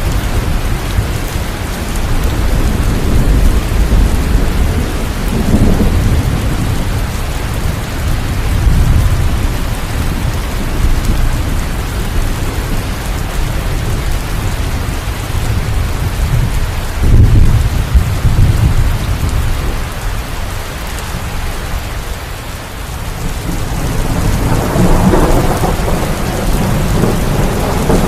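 Steady heavy rain with thunder rumbling in slow low swells, the loudest roll about two-thirds of the way through.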